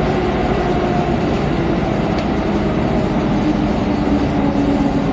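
An X10 electric commuter train running along the line, heard from inside the carriage: a steady rumble of wheels on track, with a few motor tones that drift slowly in pitch.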